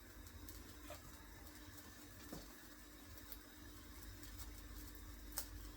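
Near silence: faint room tone with a steady low hum and a few light clicks.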